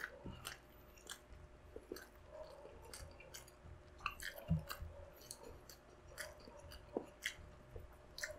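Chewing and wet mouth clicks of someone eating balut with chopped chili, the clicks scattered all through, with one soft low thump about four and a half seconds in.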